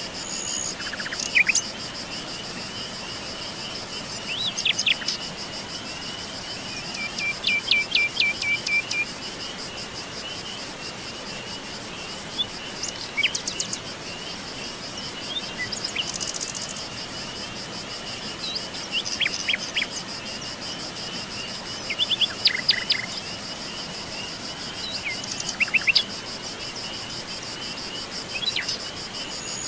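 Forest birds calling and singing in short chirps and trills, one a quick run of repeated notes, over a continuous high-pitched insect trill.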